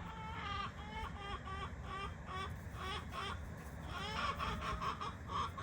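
Chickens clucking: a quick run of short calls, several a second, growing busier and louder about four seconds in.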